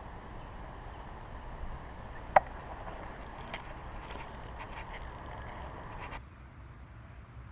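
Steady rush of high creek water, broken by a sharp click about two seconds in and a run of light clicks and rattles. The rushing drops off abruptly near the end.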